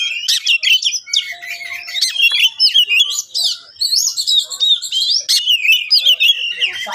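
Oriental magpie-robin (kacer) singing a loud, rapid, unbroken run of varied chirps, whistles and warbles.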